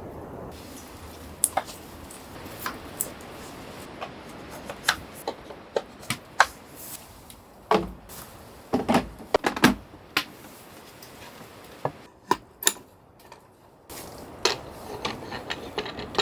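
Irregular clicks, taps and knocks of objects being handled, with a cluster of heavier thuds about halfway through.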